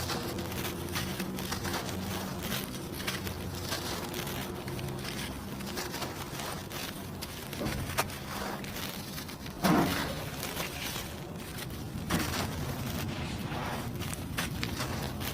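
Dry cement being crumbled: dense, crunchy crackling, with two louder crunches in the second half.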